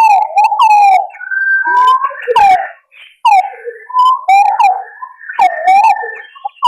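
Green pigeons (punai) calling: a run of fluting whistles that swoop up and down in pitch, several overlapping, with a brief gap about three seconds in. It is a recording of the kind played as a lure to draw green pigeons in.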